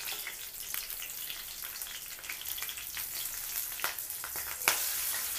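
Cut green chillies and cumin seeds sizzling in hot oil, a steady hiss with scattered small crackles and one sharper pop near the end.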